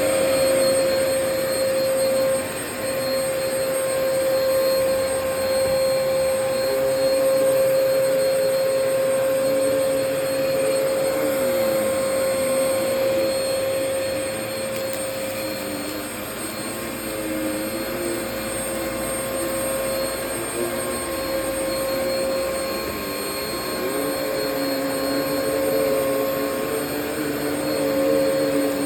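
Shark vacuum cleaner running steadily while vacuuming carpet, with a constant high motor whine. Lower tones in the sound shift and waver as it is worked across the carpet.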